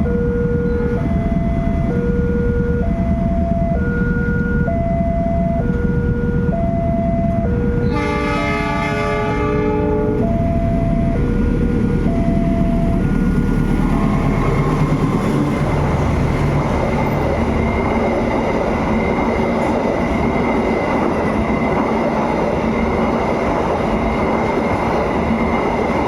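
Railway level-crossing alarm ringing in an alternating two-note pattern, about one note a second. About eight seconds in, a diesel locomotive's horn blasts for about two seconds. The alarm stops, and then the Lodaya passenger train passes with a steady rumble of wheels on rails and a high ringing tone.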